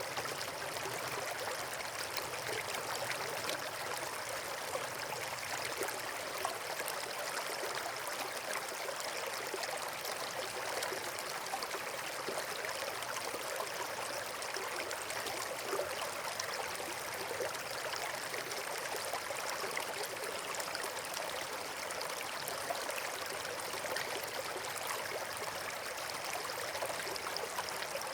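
Steady rushing of running water, like a stream or small waterfall, even and unbroken, with a few faint ticks.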